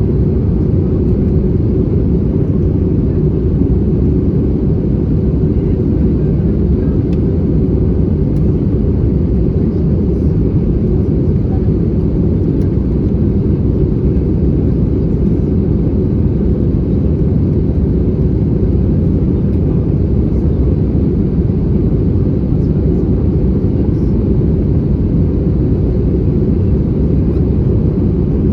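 Steady low cabin rumble inside an Airbus A320-214 on descent: its CFM56 engines and the airflow over the fuselage make an even roar with no change in level.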